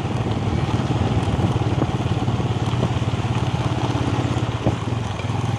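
Motorcycle engine running steadily while riding, an even low hum with a fast firing pulse.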